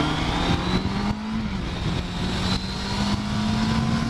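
Motorcycle engine heard from on the bike, accelerating: its pitch climbs, drops once at a gear change about a second and a half in, then climbs slowly again.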